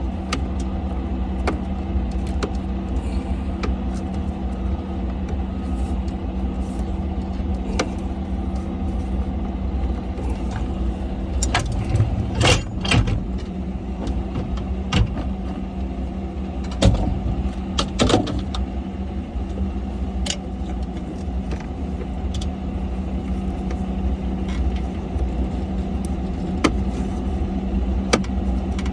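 An engine running steadily at idle, with a few sharp clicks and knocks from handling plastic parts, the loudest about halfway through.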